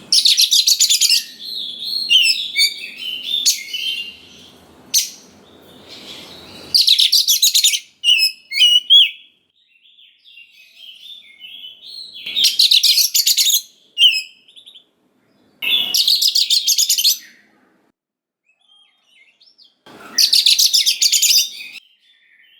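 Oriental magpie-robin singing. Loud, rapid, harsh-sounding trills of about a second each come five times, with softer whistled and warbled phrases in between.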